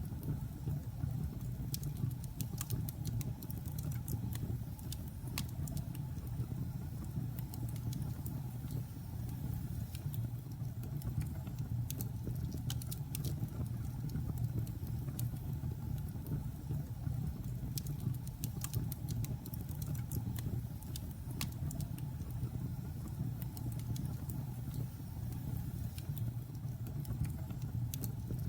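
Logs burning in a fireplace: a steady low rumble from the fire with many small, sharp crackles and pops coming at irregular moments.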